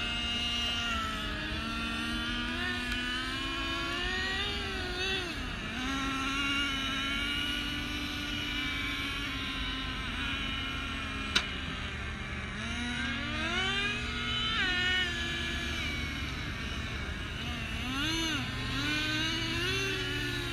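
Radio-controlled car motor running with a buzzing whine whose pitch rises and falls again and again as the throttle is worked. There is one sharp click about eleven seconds in.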